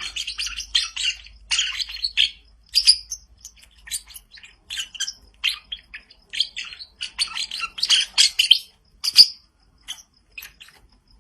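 Pet parrot chirping and squeaking, a fast run of many short high calls with brief gaps, one louder call near the end.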